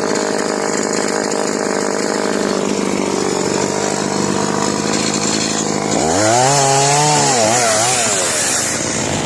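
Chainsaw running steadily while cutting into a large aspen being felled. About six seconds in, its engine note rises and swings up and down as it is revved.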